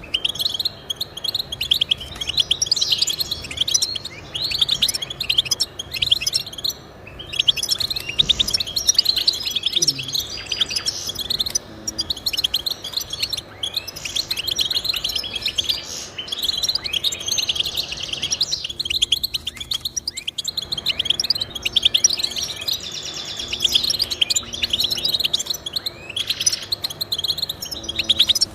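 Goldfinch singing: a fast, nearly continuous run of twittering notes and trills, broken by only short pauses.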